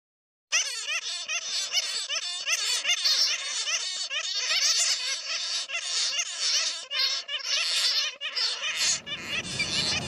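Many birds chattering at once: a dense mass of quick chirps that sweep up and down in pitch. It starts suddenly about half a second in, and a low rumbling noise comes in near the end.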